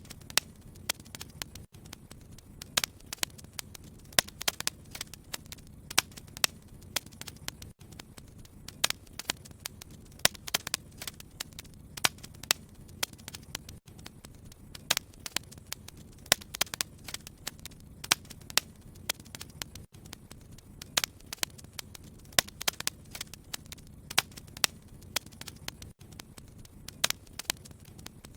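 Wood fire crackling: irregular sharp pops and snaps, often several a second, over a steady low rumble of the flames.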